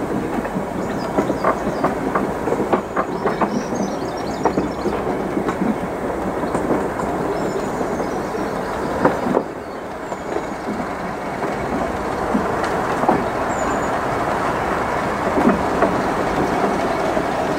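Train running along the track, its wheels clattering over rail joints with a steady rumble and scattered clicks; the level drops suddenly a little over halfway through.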